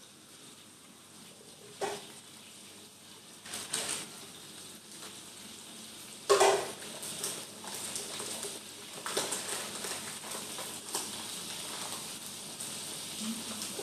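Blended onion, shallot and garlic paste frying in oil in a wok, a steady sizzle that grows louder in the second half. Pots and dishes are handled with a few clanks, the loudest a little over six seconds in.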